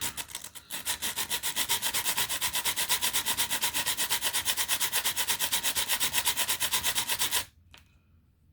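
Sanding a 3D-printed plastic part: a loud scratchy rubbing in a fast, even rhythm of about a dozen strokes a second, which stops abruptly near the end.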